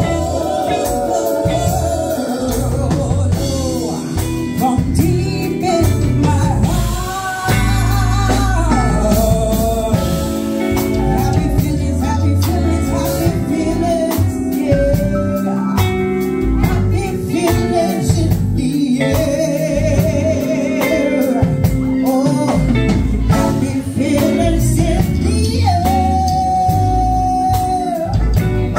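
A woman singing with band accompaniment of guitar, bass and drums, her voice wavering with vibrato on held notes, including a long held note near the end.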